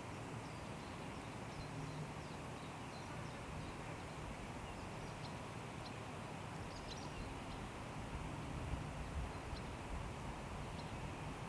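Forest ambience: wind blowing steadily through the trees, with a low rumble underneath and scattered short, high bird chirps.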